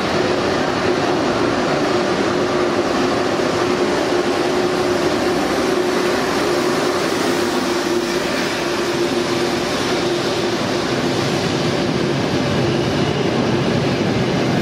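Red Frecciarossa high-speed electric train rolling slowly along a station platform: a continuous rolling rumble with a steady hum that fades about nine seconds in.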